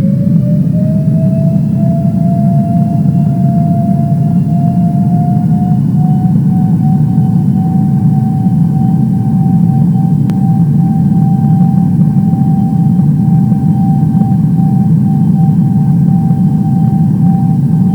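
Airliner engines heard from inside the cabin: a loud, steady low rumble under a whine that rises in pitch over the first few seconds, then keeps creeping up slowly as the engines spool up to higher thrust.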